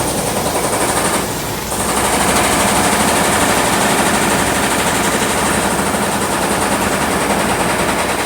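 Stick welding arc crackling and sputtering steadily, with a brief dip about a second in.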